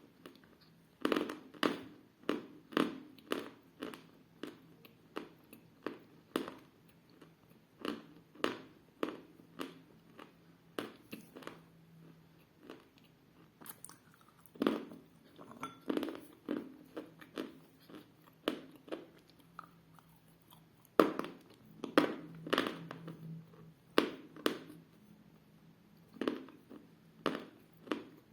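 Dense, hard edible chalk being bitten and chewed close to the microphone: a run of short, crisp crunches about one or two a second, with a couple of brief pauses.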